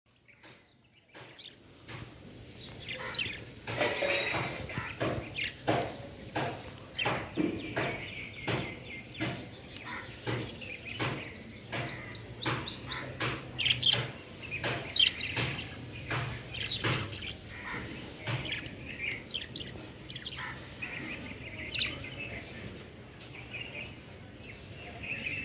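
Lovebirds chirping, with many short sharp taps and clicks scattered through as they peck and gnaw at a clay breeding pot, and a quick run of chirps about halfway.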